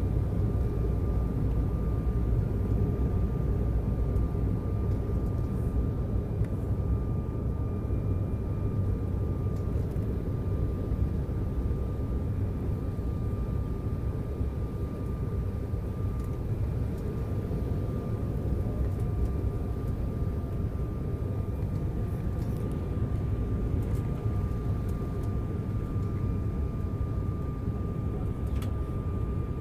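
Steady cabin noise of an Embraer 190 airliner in flight: a low rumble of engines and airflow with a thin, steady whine from the twin GE CF34-10E turbofans.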